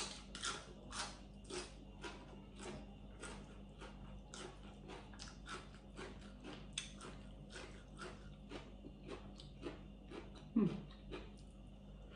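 Close-up mouth chewing of a spicy long bean salad, with crisp wet crunching about two to three bites a second. A short falling whine comes near the end.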